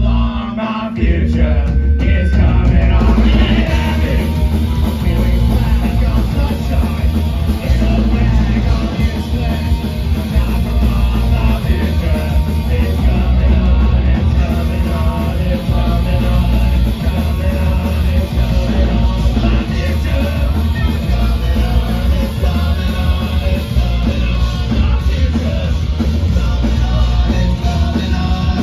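Punk rock band playing live at full volume, with yelled vocals; the full band comes in about a second in.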